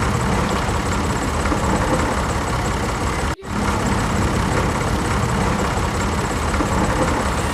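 Tractor engine running steadily at idle, the sound dropping out for an instant about three seconds in.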